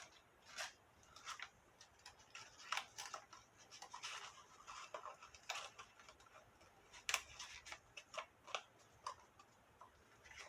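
Cardstock being handled: faint, irregular taps, clicks and brief rustles as the folded paper box layers are closed and the lids are fitted.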